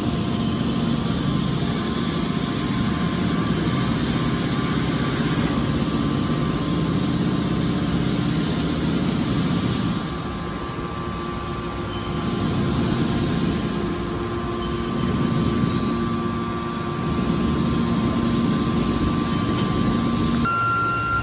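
Scrap-metal baler machinery running with a steady mechanical hum. The sound dips and shifts about ten seconds in, and a new steady whine comes in near the end.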